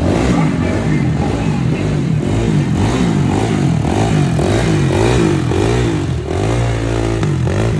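Car engine being revved again and again, its pitch rising and falling in quick blips, loud throughout.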